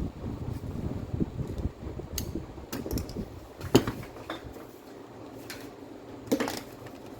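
Irregular clicks and light knocks of small parts being handled, with two sharper knocks, one near the middle and one near the end, over a low rumble that fades about halfway through.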